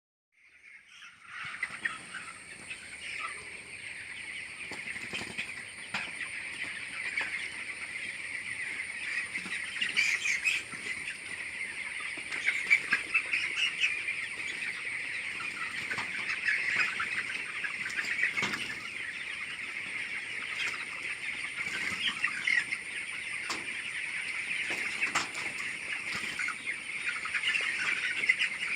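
A large flock of chickens calling together in a dense, continuous chorus of overlapping high-pitched calls, with scattered short clicks and a faint steady high whine underneath. It fades in over the first second or two.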